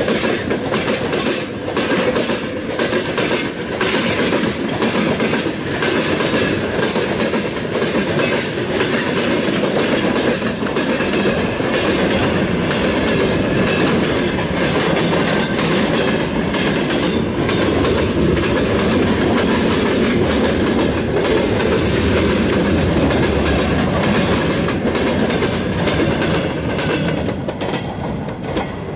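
Freight train of open gondola wagons rolling past, a steady rumble of wheels and bogies with repeated wheel knocks. The sound falls away near the end as the last wagon passes.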